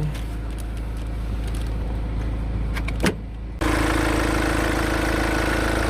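A BMW X4 20d's 2.0-litre four-cylinder diesel idling, muffled at first; a click about three seconds in, then the idle comes through suddenly louder and clearer.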